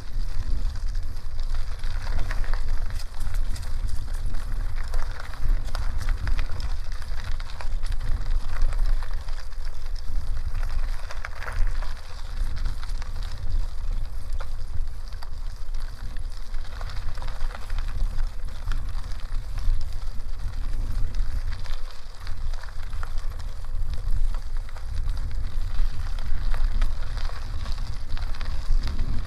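Bicycle tyres rolling over a gravel dirt road, a steady crackling crunch of grit under the wheels, with a heavy wind rumble on the microphone.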